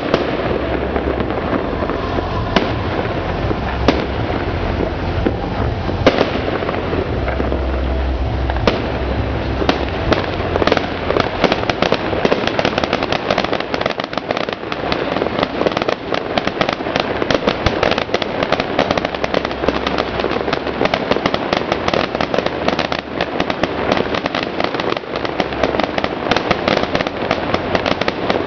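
Fireworks display bursting: a few separate bangs at first, then from about ten seconds in a dense, continuous crackling of many bursts.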